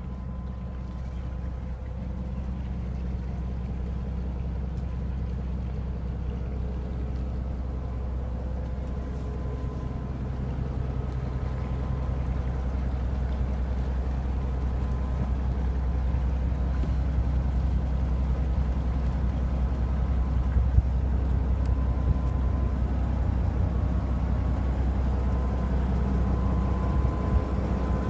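A charter fishing boat's engine running steadily with a low drone that grows gradually louder.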